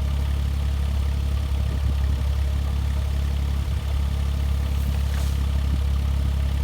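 Diesel engine of a 1.7 ton Kubota mini excavator running steadily with a deep, even hum.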